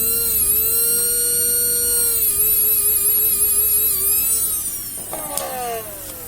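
Small electric motor of a Tamiya mini 4WD car running flat out with a steady, high-pitched whine that wavers slightly in pitch. About five seconds in, a click, and the whine falls in pitch and fades as the motor spins down.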